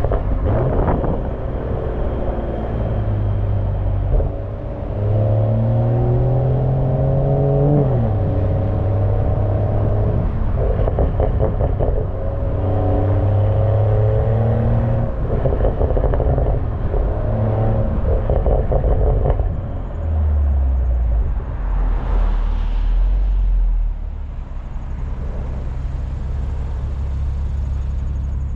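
BMW M340i's turbocharged 3.0-litre inline-six exhaust heard from the rear of the car as it accelerates through the gears. The pitch climbs and drops back at each shift, then settles to a lower, steady drone in the last third, with wind buffeting the microphone.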